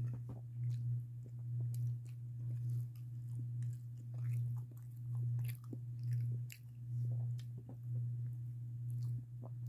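A person chewing a mouthful of food close to the microphone, pulsing about once a second, with small wet mouth clicks.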